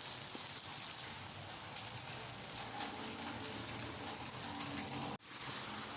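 Steady rain falling, an even hiss of water on surfaces. The sound drops out briefly a little after five seconds in.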